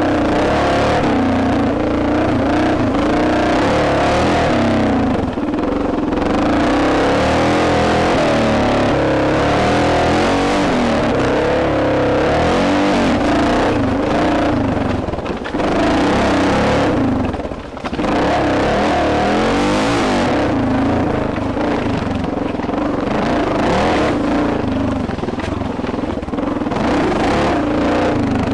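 Single-cylinder 650 cc dual-sport motorcycle engine running on and off the throttle as it rides a trail, heard from a helmet camera, its pitch rising and falling; the throttle closes briefly a few times, most clearly about 18 seconds in.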